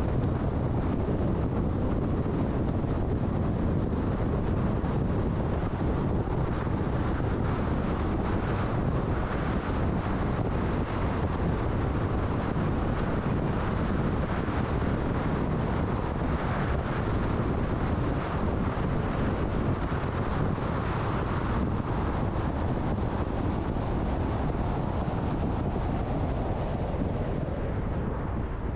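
Steady road and wind noise of a car driving, with a low rumble of tyres and a rush of wind over the microphone.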